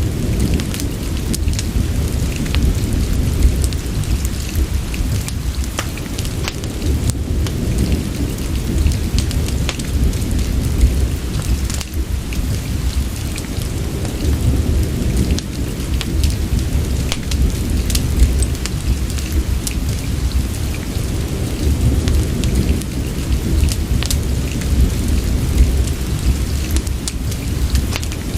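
Rain-and-fireplace ambience: steady rain falling over a deep, continuous low rumble, with scattered sharp crackles and drip-like ticks all through.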